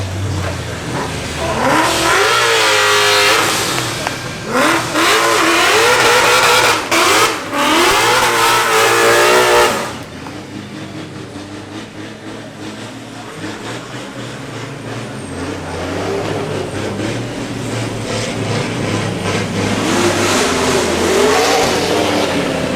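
Ferrari 488 Pista's twin-turbo V8 accelerating hard from a launch, its pitch climbing through several quick upshifts with brief dips between gears. About ten seconds in the loud engine sound drops away sharply, leaving a quieter engine note that rises again near the end.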